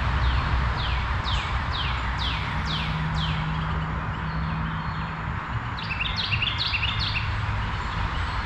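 A songbird singing: a run of about eight falling notes, roughly two a second, then a quick jumble of chirps a little after halfway, over a steady background hiss and low rumble.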